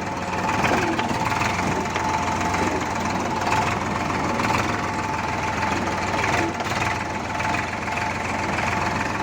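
Escort tractor's diesel engine running steadily.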